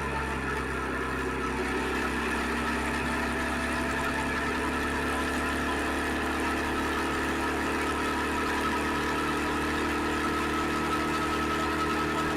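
Suzuki SV650X's V-twin engine running at a steady, unchanging speed, picked up on an action camera's microphone.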